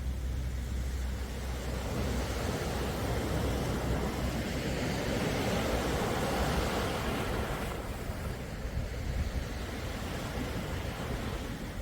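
Sea waves washing in: a steady rush of surf that swells over the first several seconds and eases off about eight seconds in, with a low rumble underneath.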